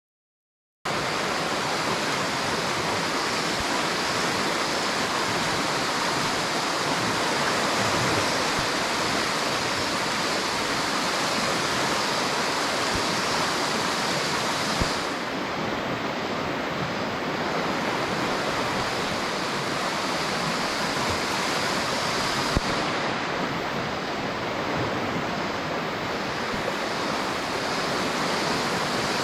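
River water rushing steadily, a dense even wash of flowing-water noise that starts abruptly just under a second in.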